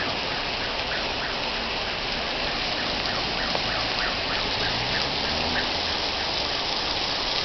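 Heavy rain pouring down in a steady downpour, with the patter of drops striking close by.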